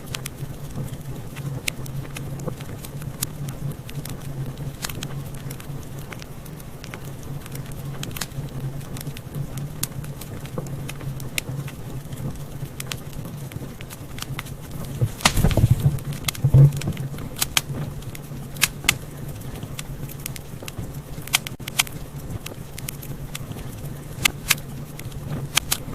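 Wood fire in a fireplace crackling with irregular sharp pops over a steady low hum, and a flurry of louder pops about fifteen seconds in.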